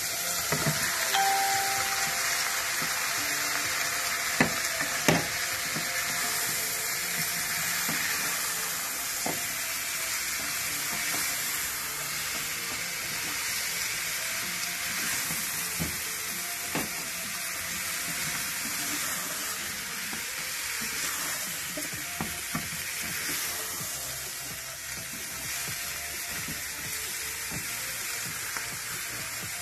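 Dry fish, onion and green chilli sizzling as they fry in a saucepan, with mango pieces added and a wooden spatula stirring and now and then knocking against the pan.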